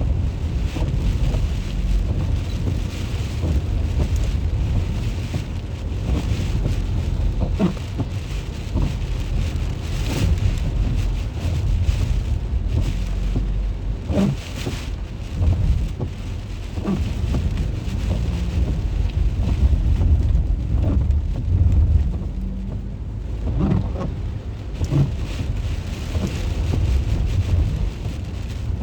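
Steady rain falling, with a deep low rumble underneath and scattered sharp taps of drops striking nearby surfaces.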